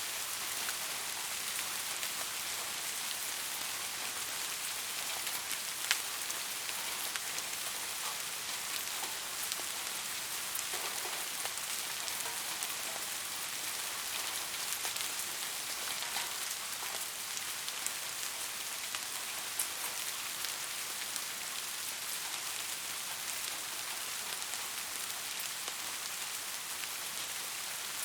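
Steady rain falling, a continuous bright hiss with scattered single drops tapping out clearly, one sharper tap about six seconds in.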